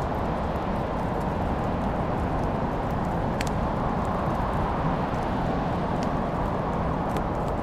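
Wood fire burning in a fireplace: a steady low rumble of flames with sparse sharp crackles and pops, the clearest about three and a half seconds in.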